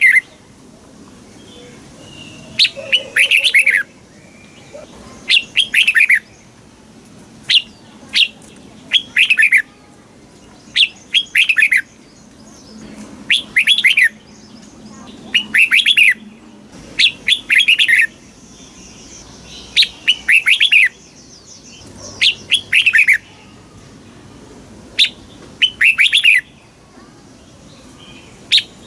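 Red-whiskered bulbul singing the same short, lively phrase again and again, about one phrase every two seconds, each a quick run of falling whistled notes.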